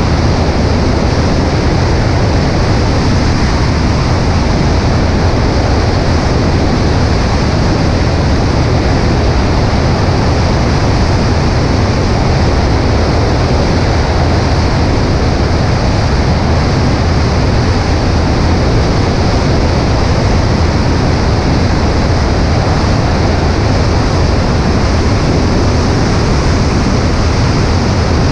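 Steady, loud drone of a Cessna 140A's engine and propeller mixed with heavy wind rush over a wing-mounted microphone.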